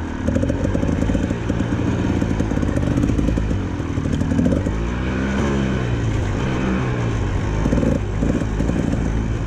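Dirt bike engine running while being ridden, its revs rising and falling with the throttle.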